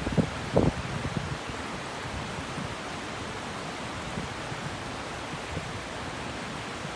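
River water rushing steadily over its bed, an even hiss of flowing water. A few brief low thumps come in the first second or so.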